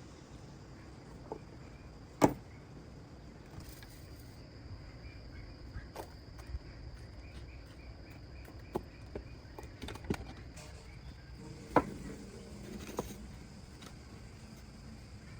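Scattered sharp knocks and clunks, the loudest about two seconds in and another near twelve seconds, from heavy wooden blocks being handled and stacked, over a steady high drone of crickets.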